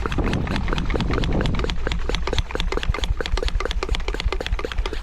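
A Chapin hand pump sprayer being handled and worked: a fast, uneven run of small plastic clicks and rattles, over a steady low wind rumble on the microphone.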